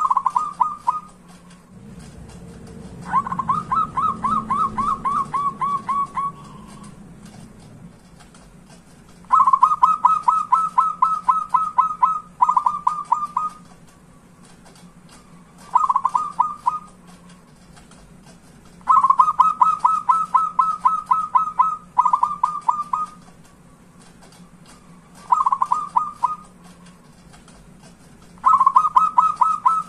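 Zebra dove (perkutut) calling in about nine bursts of quick, evenly repeated short cooing notes, each burst one to three seconds long. A low rumble sits under the second burst.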